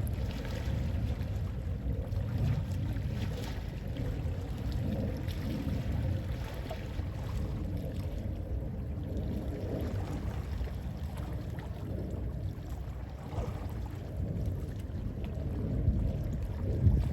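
Gentle sea waves washing in, with sea wind rumbling on the microphone, swelling louder near the end.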